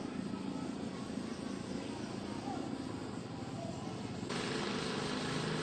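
A steady engine hum under outdoor background noise. About four seconds in, the background suddenly gets louder and brighter.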